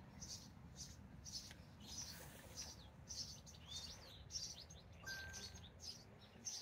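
Faint bird chirping: short, high chirps repeated about twice a second.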